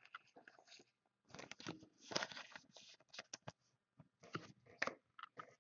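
Faint crinkling, rustling and light clicks of football trading cards being handled and sorted, in short scattered snatches, loudest about two seconds in.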